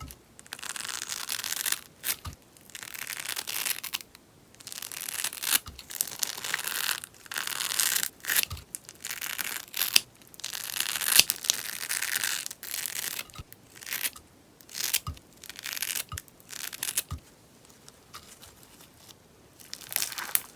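Sponge slime being worked by hand, crackling and popping in repeated bouts of a second or two with short pauses between, quieter for a couple of seconds near the end.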